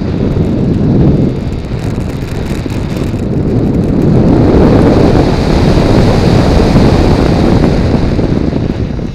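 Wind rushing over the microphone of a camera mounted on a Multiplex Blizzard RC model plane in flight: a loud, steady rush with no motor tone, swelling about a second in and again through the middle.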